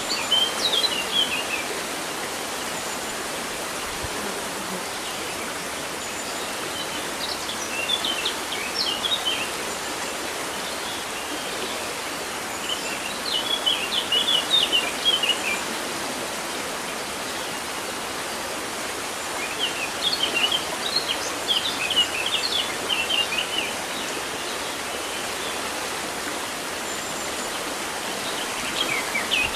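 River water running steadily, with a songbird singing in short twittering bursts of about two seconds, repeated roughly every six seconds.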